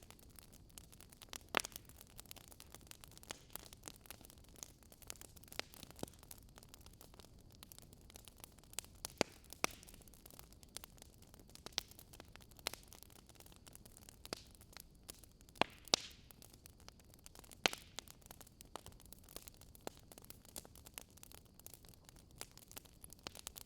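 Burning firewood crackling: irregular sharp pops and snaps over a soft steady hiss.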